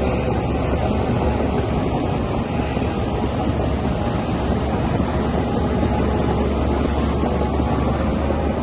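Shantui DH17C3Pro bulldozer's diesel engine running steadily, a continuous drone with a low hum and no sudden knocks.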